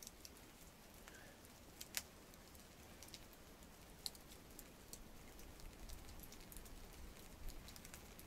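Campfire crackling faintly: scattered sharp pops and ticks over a low hiss, with one louder pop about two seconds in.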